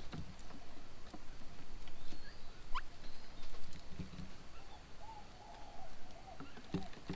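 Birds feeding at a bird table: scattered taps and scuffles of beaks and feet on the table, with a quick rising call about three seconds in and a low wavering call near the end.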